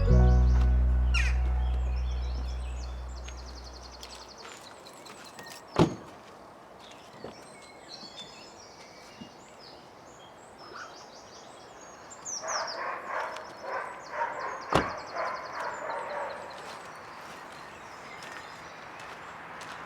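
Woodland birds calling and singing against a background hush, with the last notes of a piano sting dying away over the first few seconds. A stretch of quick repeated calls runs from about 12 to 16 seconds in, and two sharp knocks stand out, about 6 and 15 seconds in.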